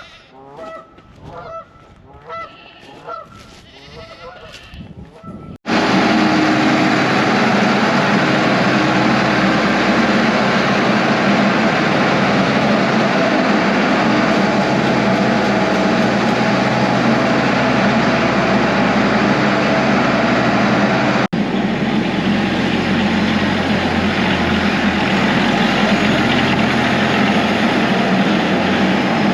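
Geese honking: a few separate calls, then from about five seconds in a loud, dense, continuous din.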